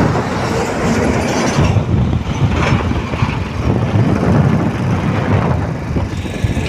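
Eicher 3019 truck on the move: steady, loud engine and road noise with a dense clatter.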